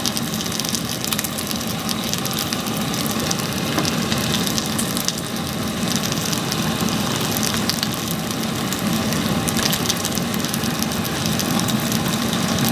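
Damp, nearly green firewood burning: a steady hiss with frequent small crackles. The wood keeps going out rather than catching.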